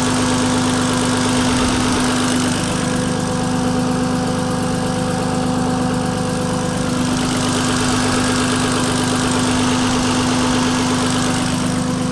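Turbocharged BMW E46 engine idling steadily.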